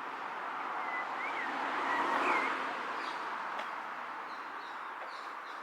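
Small birds chirping over a steady distant rush of traffic that swells about two seconds in and then fades back.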